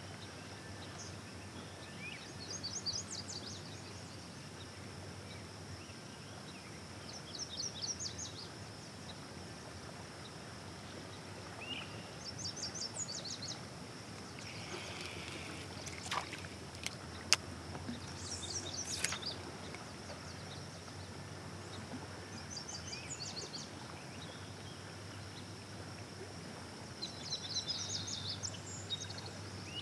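A songbird singing a short, rapid, high-pitched trill phrase every four or five seconds over a steady background hiss, with two sharp clicks a little past halfway.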